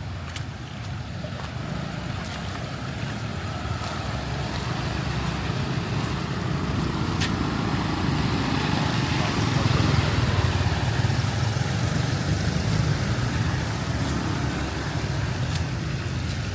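A motor vehicle driving slowly through floodwater: a low engine rumble with water swishing, growing louder to a peak a little past the middle and then fading.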